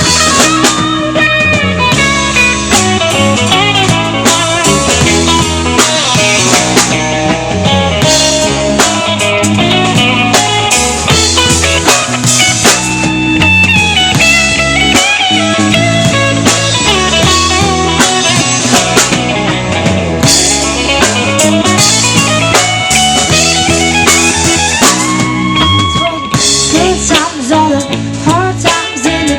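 Live band playing an instrumental stretch in a blues-rock style: electric guitar lines over bass and a drum kit keeping a steady beat.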